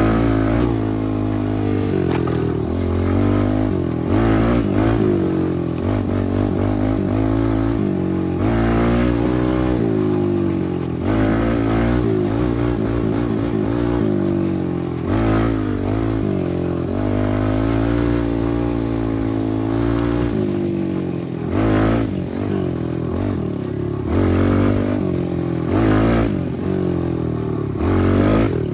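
Pit bike engine revving hard, its pitch climbing and falling again and again as the throttle opens and closes, with several short sharp surges in the last third.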